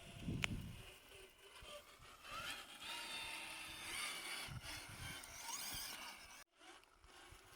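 Rlaarlo JK07PRO 1/7 RC crawler's electric motor and gearing whining as it is driven, the pitch rising and falling with the throttle, after a single knock about half a second in.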